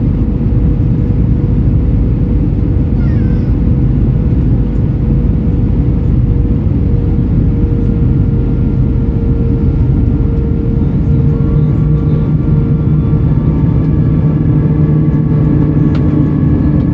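Airbus A320 cabin noise with its IAE V2500 engines: a loud, steady rumble of airflow and engines with a steady hum, and about eleven seconds in further steady engine tones join in.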